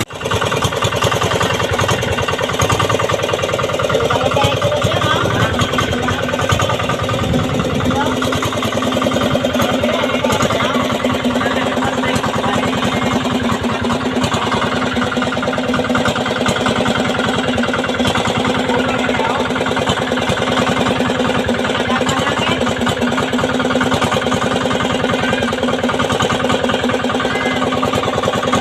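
16 hp Yanmar diesel boat engine running steadily, a continuous rapid chugging.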